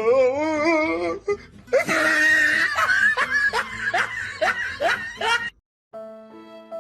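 A person laughing: a drawn-out, wavering laugh, then a run of quick repeated laughs that cuts off suddenly about five and a half seconds in. Soft music with long held notes follows near the end.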